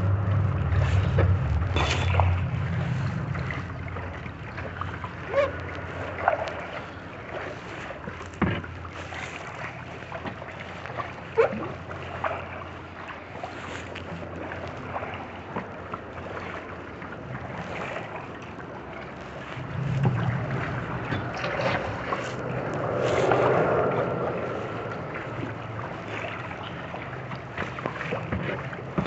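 Kayak out on the water: paddle strokes splashing at irregular intervals and water sloshing against the hull, with wind rumbling on the microphone at the start and again about twenty seconds in.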